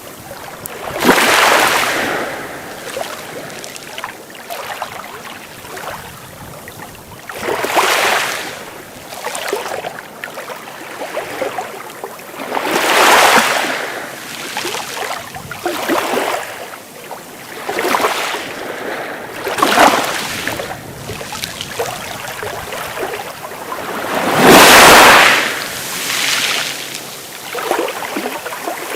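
Sea waves breaking and washing up on the shore. A rushing surge comes every few seconds and fades back between them. The largest wave breaks about 25 seconds in.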